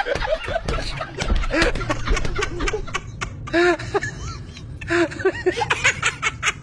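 People laughing and giggling in several short bouts, with snickers in between.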